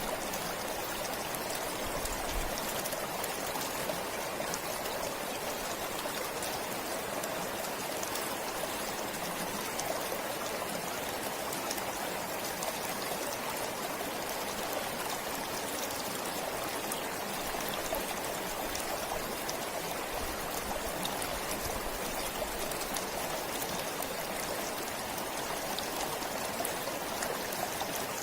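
A forest stream flowing and trickling over stones, a steady even rush of water with fine splashes.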